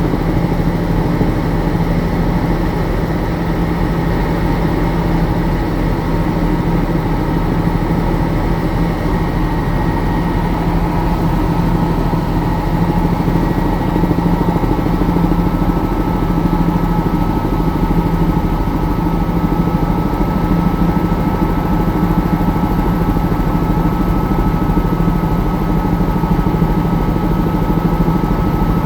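Helicopter running steadily: a loud, constant engine and rotor drone with steady whining tones above it, one of which comes in about halfway through.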